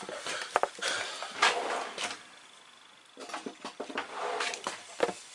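Handling noises as the plumbing parts are worked on: scattered clicks, knocks and rustles, dying down for about a second midway and then starting again.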